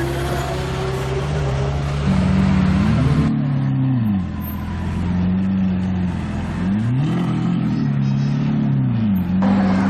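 Supercar engine idling and blipped twice, the pitch rising and falling each time.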